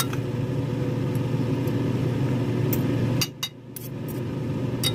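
Microwave oven running with a steady hum, which cuts off abruptly about three seconds in, followed by a couple of clicks near the end.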